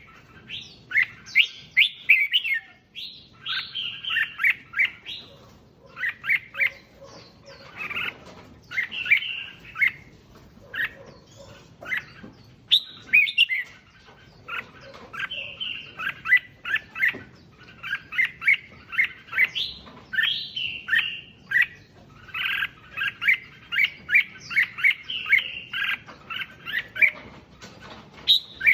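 Red-whiskered bulbul singing: quick bursts of chirpy, warbled phrases, one after another with short pauses between them.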